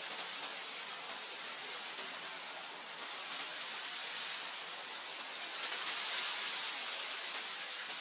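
Wind blowing, a steady rushing noise that swells slightly about six seconds in.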